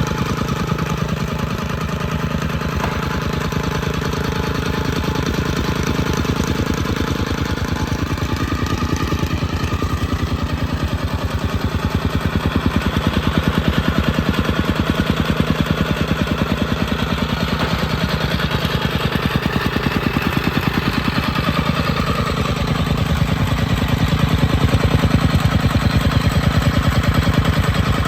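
Compactor's small engine running steadily with a fast, even pulse, getting a little louder about midway.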